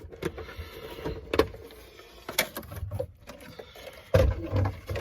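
Sharp plastic clicks and handling noise as the body shell of a radio-controlled car is unclipped and lifted off, with louder bumping handling noise about four seconds in.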